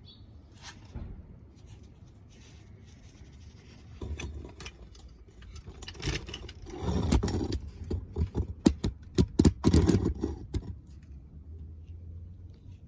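Tools and parts being handled during an engine oil and filter change: a run of irregular sharp clicks, knocks and scraping, heaviest between about seven and ten and a half seconds in.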